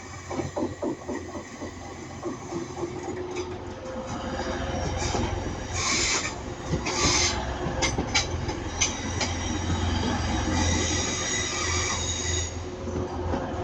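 Diesel multiple-unit train passing on the rails: wheels clicking over the rail joints near the start, then a low engine hum that builds. Bursts of high wheel squeal come about halfway through.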